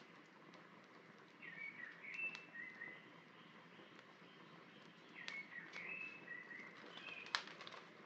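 A songbird sings two short whistled phrases, about a second and a half in and again about five seconds in. Under it a wood fire crackles faintly, with one sharp pop near the end.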